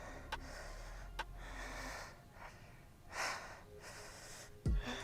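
A woman breathing hard from the effort of a set of squats, with a strong exhale about three seconds in.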